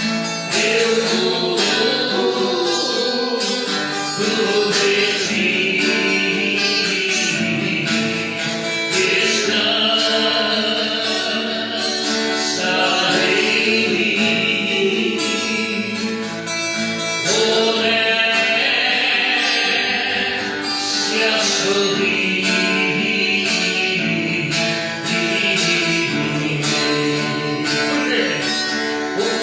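Gospel worship song: singing over guitar accompaniment, continuous throughout.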